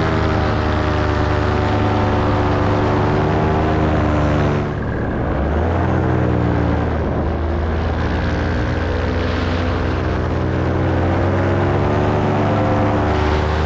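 Paramotor engine and propeller running steadily under power in flight. About four and a half seconds in, the throttle eases off and the pitch drops briefly, then it comes back up to a steady cruise.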